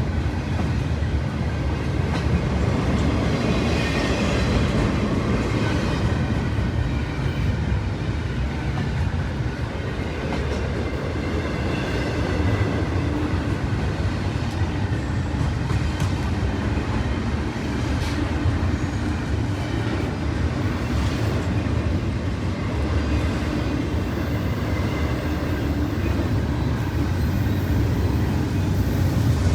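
A train running past: a steady, continuous rumble that holds even throughout, with faint higher tones over it.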